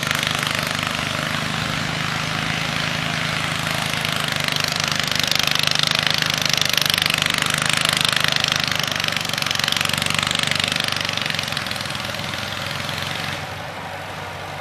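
Tractor engine running steadily, growing louder in the middle and easing off near the end.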